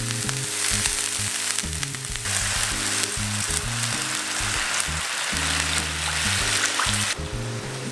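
Liquid sauce being poured into a hot pan of oil and sliced onions, sizzling with a dense hiss. The sizzle drops away suddenly near the end.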